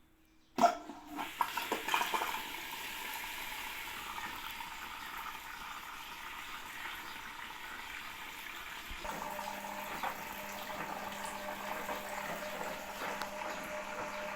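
Hisense washing machine filling with water after the start button is pressed: a few clicks about half a second in, then a steady rush of water flowing in through the detergent dispenser. Around nine seconds in a steady low hum joins the flow. The inflow is strong, which the repairer puts down to the inlet filters now being clean.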